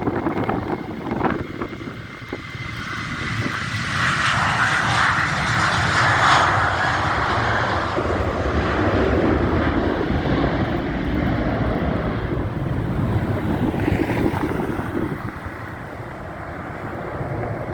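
Boeing 737-800 jet engines (CFM56-7B turbofans) passing by: the engine noise swells over about four seconds, stays strong for about ten, then fades.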